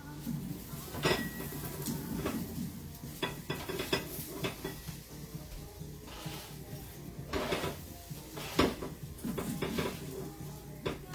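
Kitchen clatter of roasted vegetables being moved from a foil-lined baking sheet into a bowl: irregular clinks, knocks and scrapes of a utensil against the pan and bowl.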